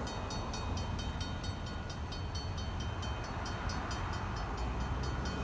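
Approaching Norfolk Southern freight train's diesel locomotives, creeping in very slowly, giving a steady low rumble. A rapid, even high-pitched chirping, about five a second, runs over it.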